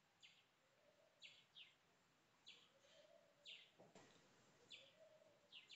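Near silence with faint, short, high bird chirps repeating roughly once a second.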